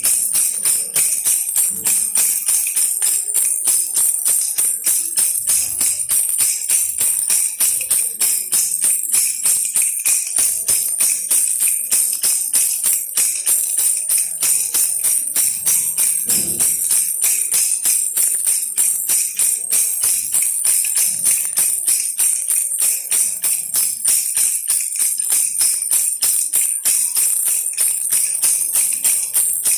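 Baby rattle shaken steadily and rapidly, giving a continuous bright jingling rattle with no pauses.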